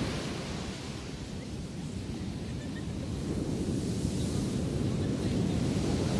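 Sea waves washing on the shore, with wind buffeting the microphone. The surf falls away after the start and swells again near the end as the next wave comes in.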